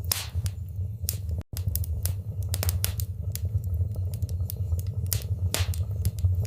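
Wood fire in a fireplace crackling, with many small snaps and a few louder pops over a steady low rumble of the flames. The sound cuts out for a split second about one and a half seconds in.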